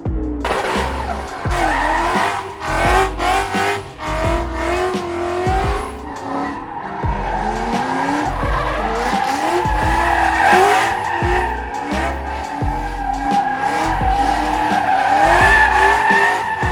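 Car tyres squealing in long screeches whose pitch wavers up and down, as in drifting, over background music with a recurring bass beat.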